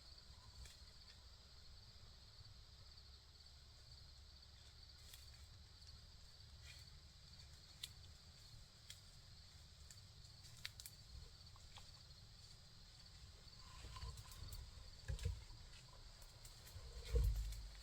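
Faint, steady trilling of crickets or other field insects over a low rumble, with scattered faint ticks. A few soft low thumps come near the end, the loudest about a second before the end.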